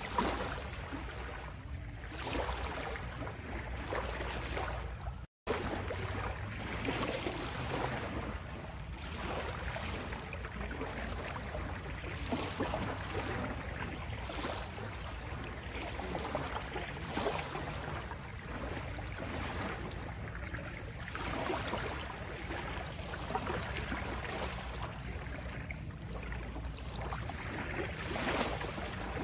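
Small sea waves rippling and washing on a shore: a steady wash that swells and eases every few seconds. The sound cuts out for a split second about five seconds in.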